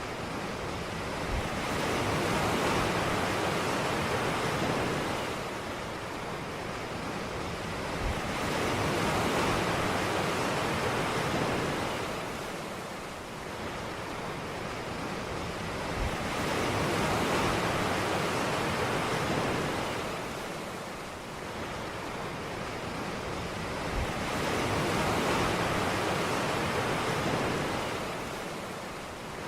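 Ocean surf: waves breaking and washing up the beach in slow surges about every eight seconds, four in all, each swell rising and falling away with a faint low thump as it breaks.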